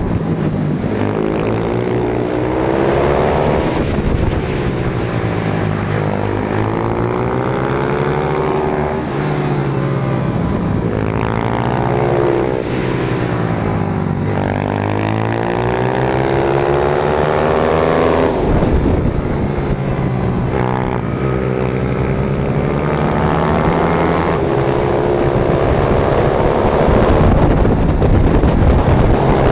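Pit bike engine heard from on board. Its pitch climbs and drops again and again as the bike accelerates and then slows for the next corner.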